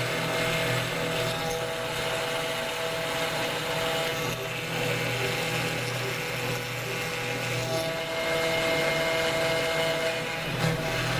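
CNC router spindle running with a steady whine over a rough cutting noise while milling acrylic resin.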